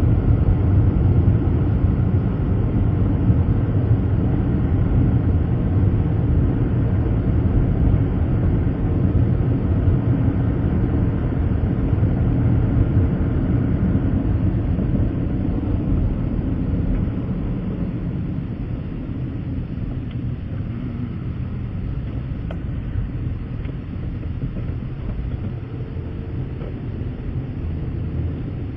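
Vehicle driving on the road: steady low engine and road rumble, easing off a little in the second half.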